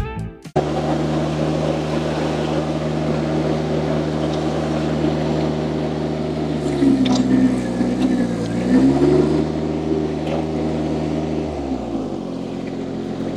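Mini skid steer loader's engine running steadily. Its pitch dips and recovers about halfway through, then settles lower near the end.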